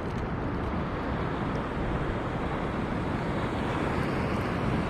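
Steady rushing of wind on the microphone mixed with sea surf at the shore, even and unbroken.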